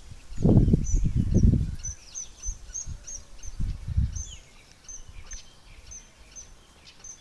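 Birds chirping: many short, high, quick chirps repeating throughout. Loud low rumbling thumps come in the first two seconds and again around four seconds in.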